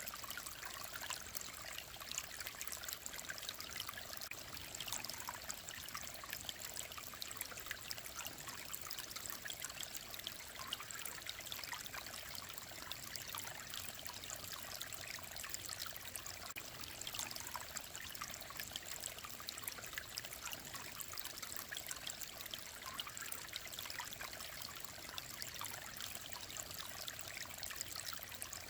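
Clear mountain stream trickling and babbling steadily, a dense, unbroken patter of small splashes.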